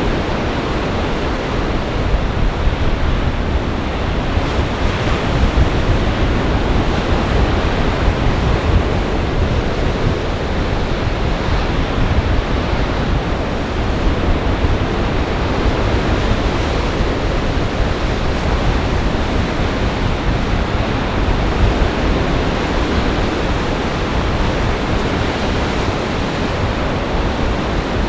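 Storm waves on Lake Michigan breaking in a steady wash of surf, driven by gale-force wind that also rumbles on the microphone.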